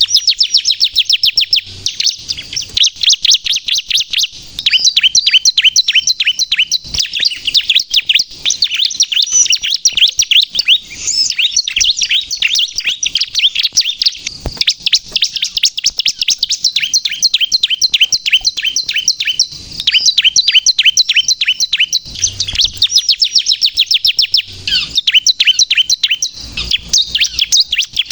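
Bar-winged prinia (ciblek) singing vigorously in long runs of rapid, high, repeated chirps, broken by a few short pauses.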